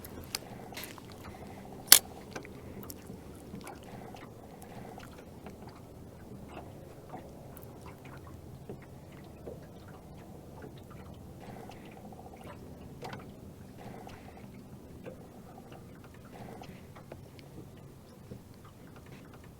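Quiet handling noises on a fishing boat: scattered small clicks and taps, one sharper click about two seconds in, over a low steady hum.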